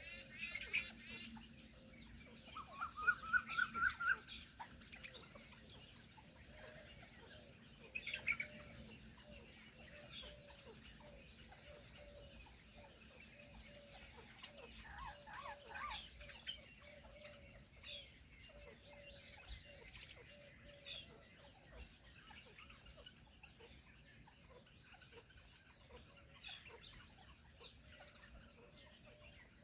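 Fowl clucking, a steady run of short low notes, with scattered higher bird chirps and a louder series of rising calls about three seconds in.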